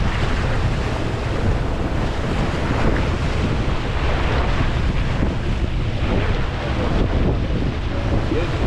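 Wind blowing on the microphone aboard a moving boat, a steady low rumble, with the rush of sea water underneath.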